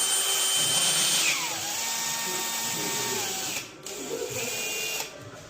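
Electric power drill running at speed with a high whine. About a second in its pitch drops and holds lower until it stops, then it gives a short second burst near the end.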